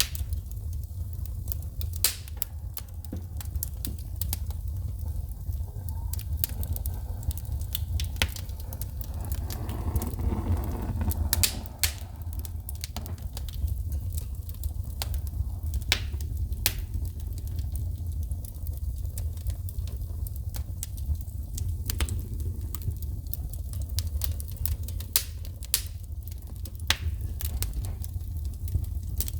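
Wood fire burning in a fireplace: irregular sharp pops and crackles of burning wood over a low steady rumble of the flames, with a brief softer hissing swell about ten seconds in.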